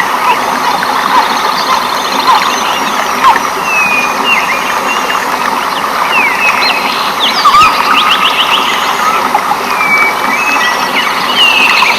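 Rainforest ambience: a chorus of short animal calls, whistles and quick trills over a steady, dense hiss.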